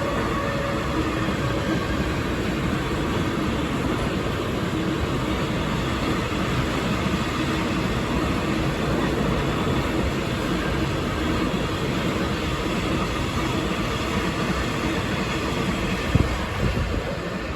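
Freight train hauled by a Stadler Eurodual locomotive passing, its wagons rolling by with a steady rail rumble and a brief knock near the end.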